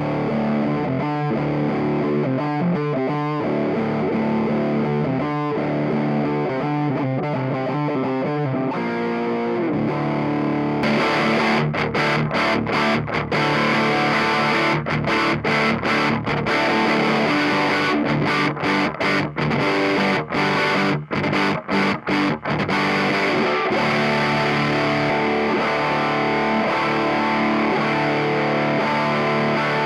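Distorted electric guitar played through a Mooer Black Secret distortion pedal, a Pro Co RAT clone, with gritty, sustained chords. About 11 s in the tone turns brighter and harsher, followed by a run of choppy chords with short breaks.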